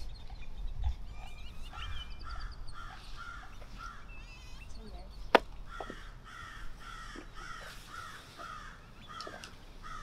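A bird calling in a steady series of harsh notes, about two or three a second, with lighter, higher twittering in the first few seconds. A single sharp click about halfway through is the loudest sound.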